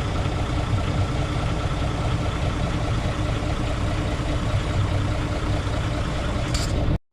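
Heavy truck's diesel engine idling steadily, with a brief hiss near the end before the sound cuts off suddenly.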